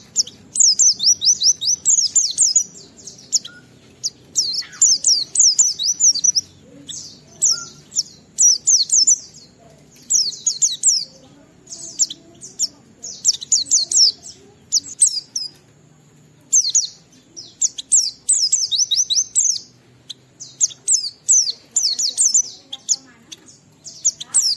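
A white-eye (pleci) singing vigorously: a run of about one-second bursts of rapid, high twittering notes, each note sliding quickly down in pitch, repeated with short pauses between them.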